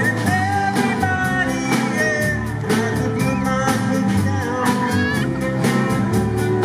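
Live rock band playing a song: a drum kit keeps a steady beat on the cymbals under bass and guitar, with a gliding lead melody line on top.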